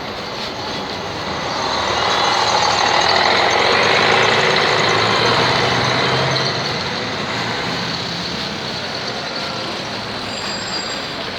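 A heavy road vehicle, such as a truck, passing close by on the street. Its noise swells about two seconds in, is loudest about four seconds in, and fades away over the next few seconds, over steady traffic.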